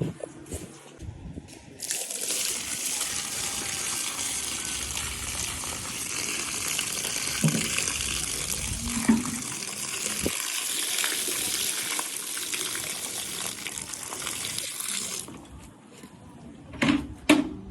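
A strong jet of water spraying with a steady hiss, starting about two seconds in and cutting off near the end, followed by a few sharp knocks.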